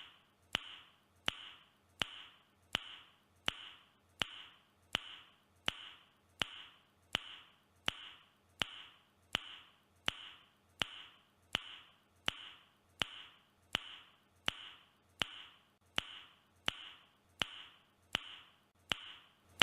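A man's mouth click repeated at an even pace, about one and a half clicks a second, each click followed by a short airy hiss; the same clip looped over and over.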